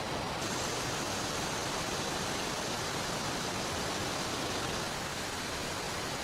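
Steady rushing noise of water, as of heavy rain and a flowing river. The hiss brightens slightly about half a second in.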